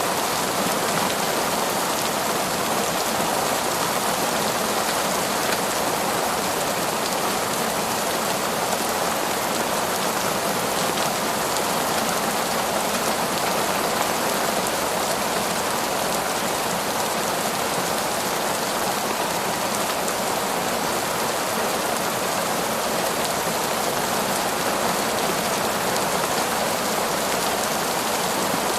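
Heavy, steady torrential rain falling on forest foliage and ground, a dense even hiss with no letup.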